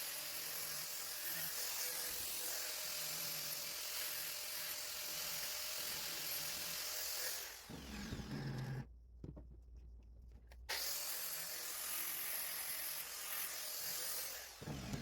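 Angle grinder running and grinding steel, a steady high hiss. It runs down about seven and a half seconds in, with a few low knocks, and starts again near eleven seconds.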